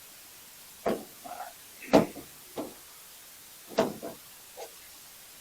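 Five short knocks and clunks, the loudest about two seconds in, from gear being handled and moved about.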